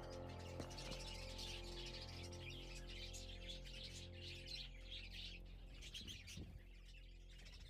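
Budgerigars chirping and chattering, many short high calls throughout. Soft background music notes sit underneath and fade out near the end.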